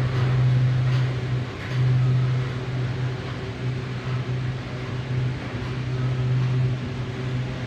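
Steady low hum inside a moving aerial tramway cabin, dipping briefly about a second and a half in.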